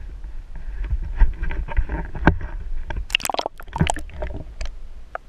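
Water sloshing and slapping against a boat's hull, with scattered knocks and a busier cluster of splashy noises about three to four seconds in, over a steady low rumble.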